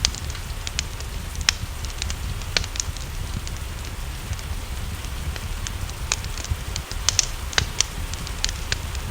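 Wood fire crackling, with irregular sharp pops scattered over a steady low rumble, mixed with a soft even hiss of rain.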